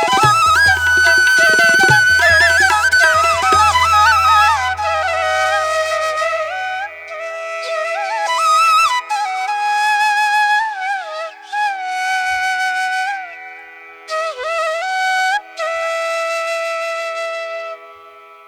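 Background music: a solo flute playing a slow, ornamented melody with bending notes over a steady drone, in an Indian classical style. Low drum strokes accompany it in the first few seconds and then drop out.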